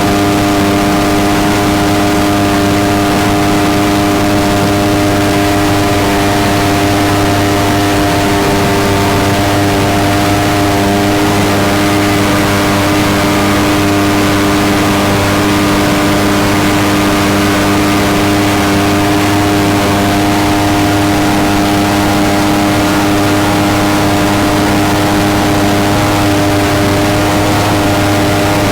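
Mini jet boat's engine running at a steady, high throttle, with its pitch held level, over a rushing hiss of water and wind.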